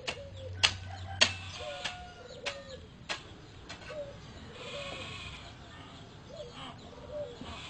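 Digging: sharp strikes of a tool into the ground at an uneven rhythm, roughly every half second to second, strongest in the first few seconds. Behind them are faint short calls that bend up and down in pitch.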